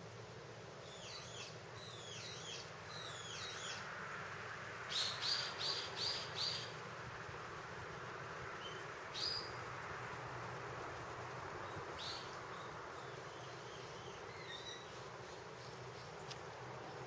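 A bird chirping: a few short downward chirps, then a quick run of five high chirps about five seconds in, then single chirps now and then, over a steady outdoor hiss.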